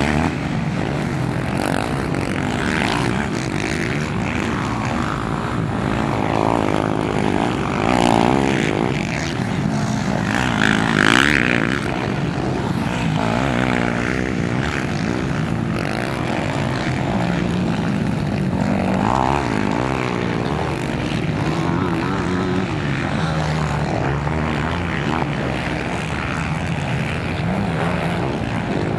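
Engines of several racing quads (ATVs) on a motocross track, revving up and down continuously as they ride, with individual machines passing close and then fading every few seconds.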